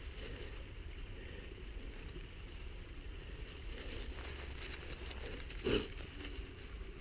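Faint rustling and footfalls on the forest floor, with a low wind rumble on the microphone and one short, sharp sound about six seconds in.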